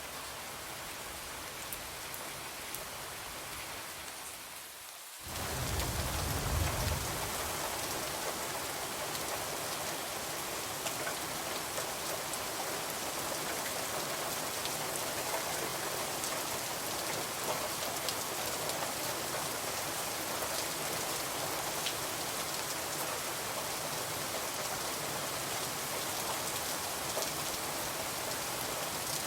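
Steady rain pattering on a window, with scattered faint clicks. About five seconds in the rain gets suddenly louder and fuller, with a brief low rumble for a couple of seconds, then holds steady.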